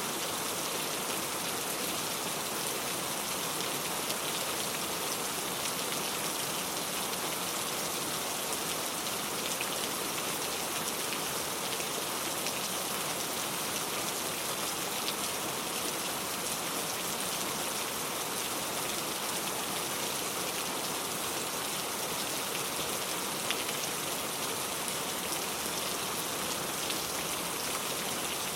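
Steady rain ambience: an even hiss of rainfall with fine drops pattering on a surface.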